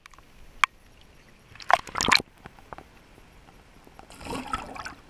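Water splashing and sloshing, with a short loud burst about two seconds in and a softer one near the end, after a single sharp click.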